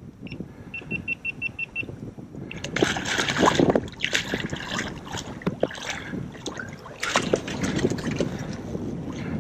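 Hooked tarpon thrashing and splashing at the surface beside the boat, in two loud bursts about three and seven seconds in, the first the loudest. Before that comes a short run of quick, even clicks.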